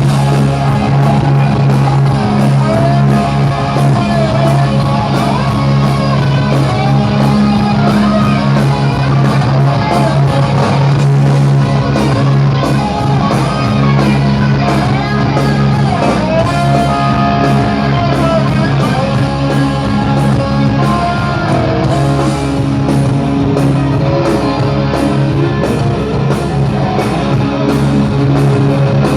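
Hard rock band playing live: electric guitar over a steady drum beat.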